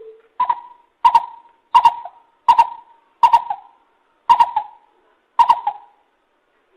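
Lesser coucal calling: one low note, then a run of seven higher, hollow notes, each with a sharp clicking onset, about one a second, stopping about a second before the end.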